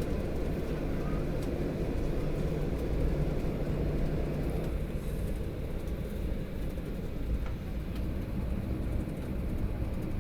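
Cabin noise of a Boeing 737-700 taxiing after landing: a steady low rumble from the engines at idle and the airframe rolling, easing slightly about halfway through.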